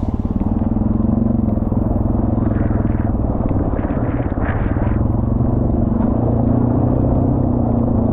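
Honda Rubicon ATV's single-cylinder engine running steadily as the quad rides along a trail.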